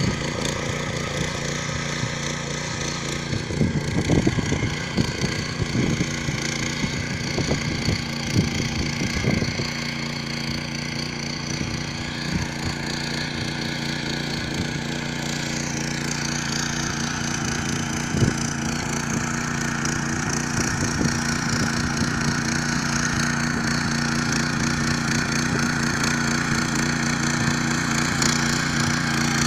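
Yağmur YET 300 garden tiller running steadily under load as it tills soil. Irregular clattering knocks come in a cluster a few seconds in and once more later.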